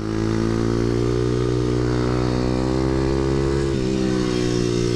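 Stomp 140 pit bike's single-cylinder four-stroke engine pulling hard with its exhaust baffle removed, so the exhaust is quite loud. The note climbs slowly, then shifts briefly near the four-second mark before carrying on.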